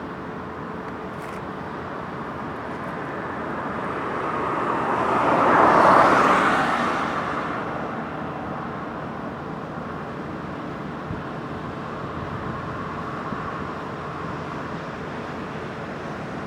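Steady road traffic on a bridge, with one vehicle passing close: its tyre and engine noise swells to a peak about six seconds in, then fades away.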